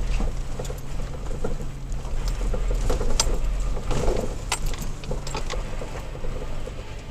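Inside a third-generation Toyota Tacoma's cab on a rough dirt trail: the engine's low, steady hum under many scattered clicks, knocks and rattles from the cab and loose gear as the truck rides over the bumps.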